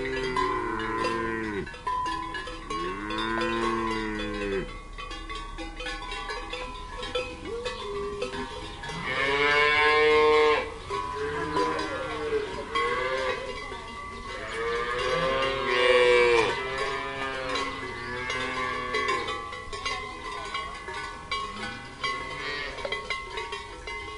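Cattle mooing repeatedly, several drawn-out moos with the loudest about ten seconds in and again about sixteen seconds in, over cowbells ringing steadily.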